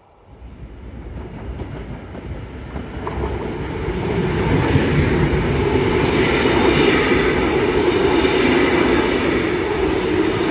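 A train passing on the line: the rush of wheels on rail builds over the first four seconds, then holds loud and steady.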